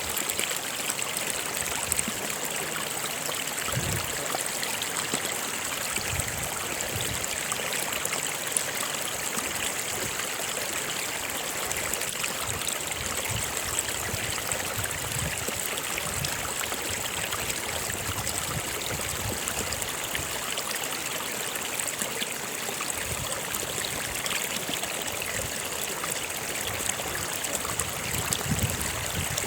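Stream water flowing steadily over rocks, with a continuous rushing hiss and occasional low gurgles.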